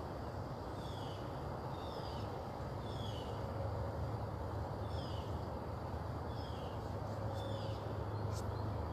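A bird calling repeatedly, short high falling notes about once a second, over a steady low hum.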